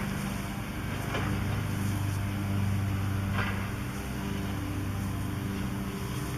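Demolition excavator's diesel engine running steadily, a low even hum, with a few faint cracks about one and three and a half seconds in.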